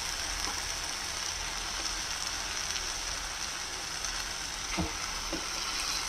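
Spiced onion-tomato masala sizzling steadily in oil in a kadai, fried until the oil has separated, as raw chicken pieces go into it. Two faint knocks sound about five seconds in.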